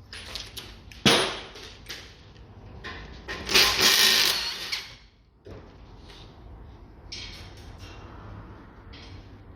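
Tools working on a car's front suspension: a sharp metal clank about a second in, then a loud burst of a power tool lasting about a second and a half, with lighter clanks and rattles after it.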